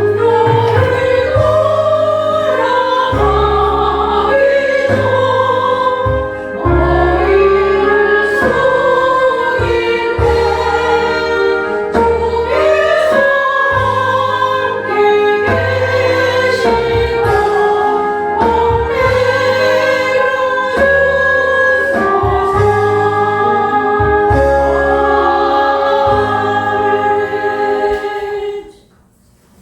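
Hymn music with voices singing together over steady bass notes; it cuts off sharply near the end.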